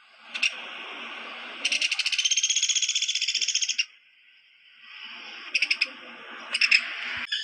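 Woodpecker calling: one rapid, high-pitched trilled rattle lasting about two seconds, with a few short sharp notes before and after it, over a steady high hiss.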